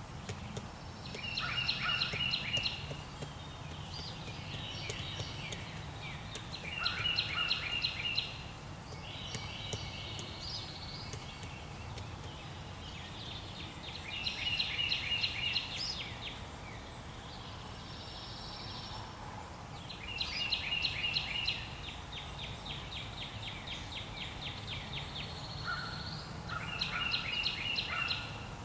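A songbird singing short phrases of rapid repeated notes, with buzzier notes between, every few seconds, over a steady low hum.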